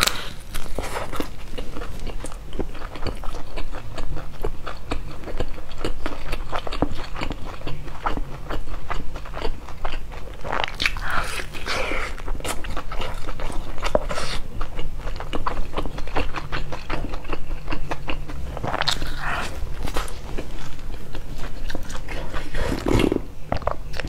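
Close-miked eating of a crisp pan-fried vegetable-stuffed flatbread: steady chewing and soft crunching, with a few louder bites spread through. A gulp of drink comes near the end.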